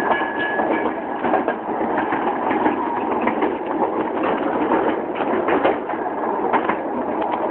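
A train rolling along rails: a steady rumble with scattered clicks and knocks from the wheels.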